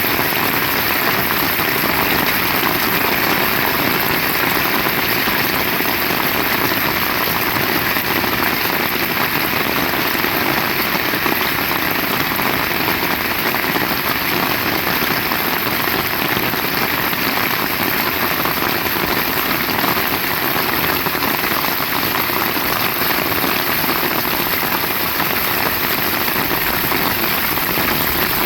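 Heavy rain falling steadily, an even hiss of rain that holds at the same level throughout.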